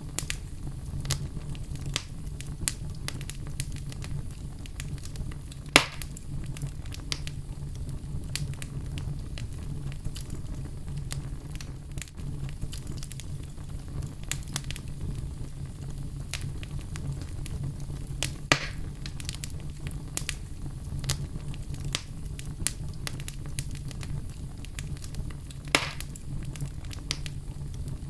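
Fire burning in a fireplace: a steady low rumble of the flames with frequent small crackles. Three louder pops stand out, about a quarter, two thirds and nine tenths of the way through.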